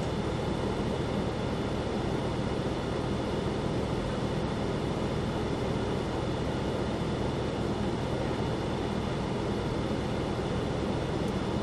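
Supercharged 6.2-litre V8 of a Cadillac CT5-V Blackwing running at a steady low speed, heard from inside the cabin, with no revving.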